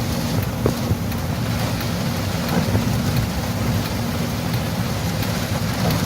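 Steady low rumble of a vehicle driving in the rain, with rain hiss and wind buffeting the microphone.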